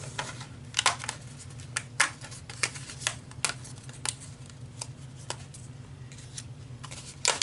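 Scrapbook paper pieces being handled on a craft table: irregular rustles, light taps and clicks as they are picked up and sorted.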